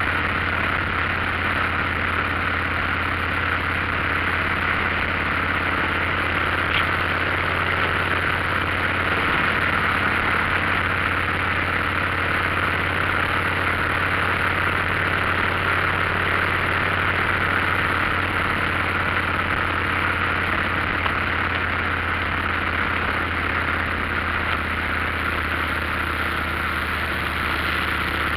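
Motorcycle running steadily on the road: a constant low engine hum under an even rush of noise, with no change in pitch.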